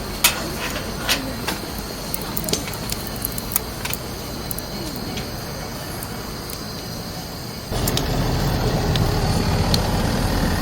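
Small wood fire of twigs and pinecones crackling with sharp, irregular pops in a mini wood stove. About eight seconds in, a steady low rumble starts suddenly and runs on under it.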